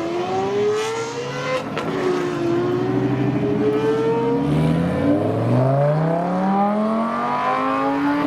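Supercar engines revving and accelerating, the pitch climbing with the revs and dropping at an upshift about two seconds in; a second engine starts climbing about halfway through while the first carries on.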